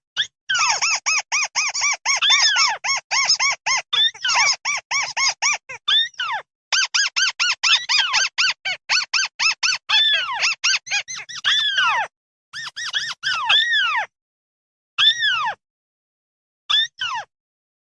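Mắt xéo birds giving their flock-gathering calls: fast runs of short, high, downward-arching notes, packed close for about the first twelve seconds, then separate calls with gaps of silence between them.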